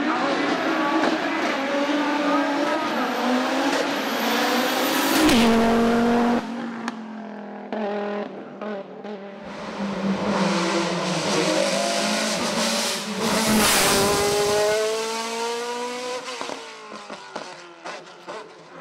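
Race car engine at full throttle, revving up through several quick upshifts and passing close by, then cutting off abruptly. A second stretch of hard acceleration through the gears builds, passes, and fades away, with a few sharp pops in between.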